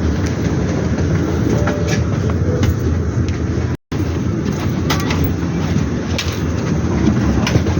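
Steady rumbling ride noise of a moving vehicle with a few faint clicks, broken by a brief silent cut about four seconds in.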